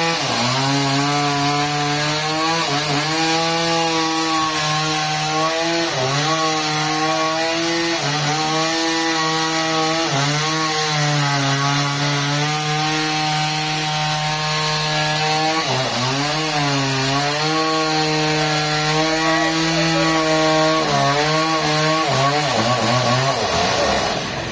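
Engine-driven saw cutting through a trembesi log: the engine holds a steady pitch that dips briefly and recovers every few seconds as the cut loads it, under a loud hiss of cutting. The pitch falls away near the end as it winds down.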